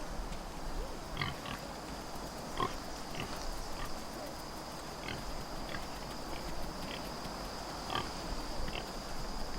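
Short animal calls, about one every second or so, over a steady high-pitched insect drone.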